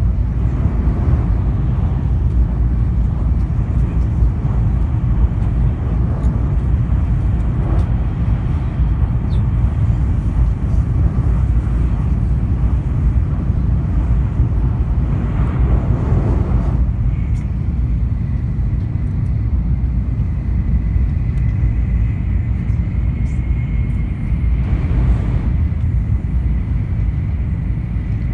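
Tokaido Shinkansen train running at speed, heard from inside the passenger car as a steady low rumble. It grows louder for a second or two about fifteen seconds in, and again briefly near the end, and a faint high steady whine joins a little past halfway.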